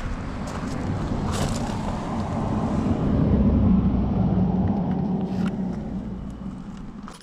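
KTM Duke 200's single-cylinder engine running through an Akrapovic full-system exhaust, getting louder toward the middle and then dying away near the end.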